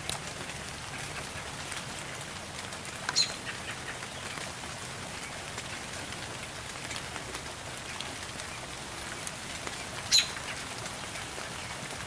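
Steady outdoor hiss with two short, high bird chirps, about three seconds in and again about ten seconds in; the second chirp is the louder.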